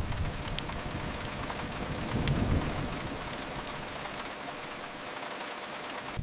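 Steady rain, an even hiss, with a soft low swell a little after two seconds in.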